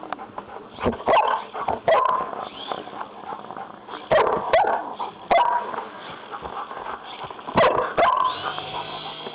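German shepherd barking: bursts of loud barks about a second in, again around four to five seconds, and once more near the end.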